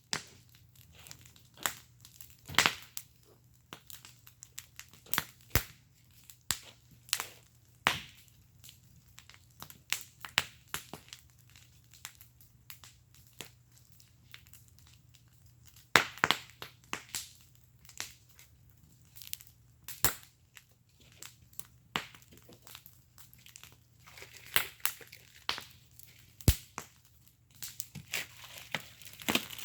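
Wood fire crackling in a fire pit: irregular sharp pops and snaps, a few much louder than the rest, thickening into denser crackling near the end.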